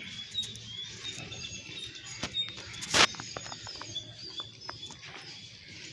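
Small birds chirping, many short high calls, with one sharp knock about three seconds in.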